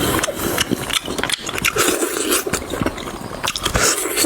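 Close-miked eating sounds: a person chewing and tearing into tender meat off the bone, with many quick wet clicks and crackles.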